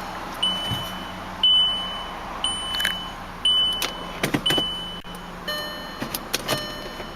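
A 2005 Volkswagen Jetta's warning buzzer sounds as five short, high beeps about one a second, then stops. Several sharp clicks follow near the end.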